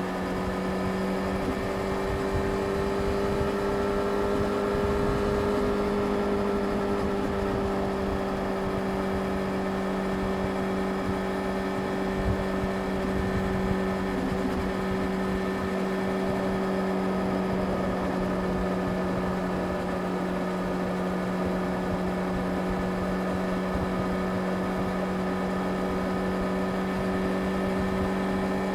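Yamaha YZF-R6 inline-four engine running at a steady cruising speed, a constant engine drone that rises slightly in pitch a few seconds in and then holds level.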